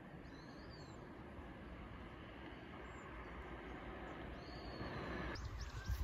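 Faint outdoor ambience: a steady noisy background that slowly grows louder, with a few short, arching bird calls, one near the start and another about four and a half seconds in. Near the end the background changes and a quick run of short high ticks comes in.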